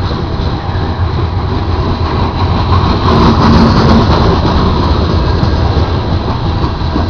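Union Pacific freight train's cars rolling slowly past on the rails, a steady loud rumble.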